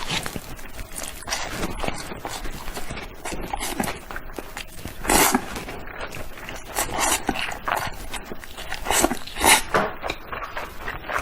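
Eating sounds of someone eating Indomie instant noodles: irregular mouth noises, with louder bursts about five seconds in and again around seven and nine to ten seconds in.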